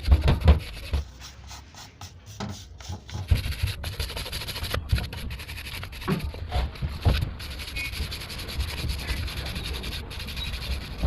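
A brush scrubbing an oily engine part in irregular strokes, with a few knocks of the part being handled.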